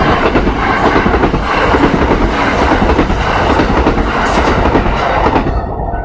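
Kintetsu electric train passing close by at a level crossing, its wheels clattering densely over the rail joints. The crossing bell's steady ringing is heard under it again near the end as the train clears.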